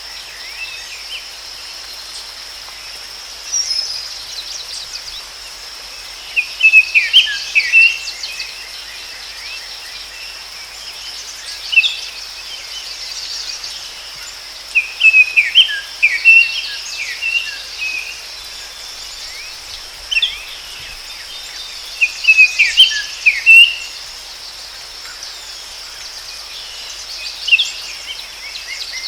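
A songbird singing short, chirping phrases every few seconds over a steady high-pitched insect drone.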